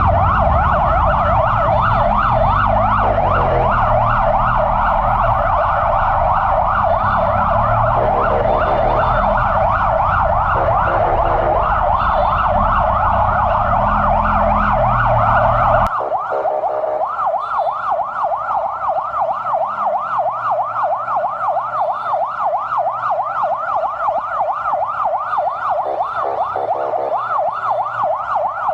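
Emergency vehicle siren in a fast warbling yelp, about four sweeps a second, with several short horn blasts. Heavy engine and road rumble sits underneath for the first half and drops away suddenly about halfway through.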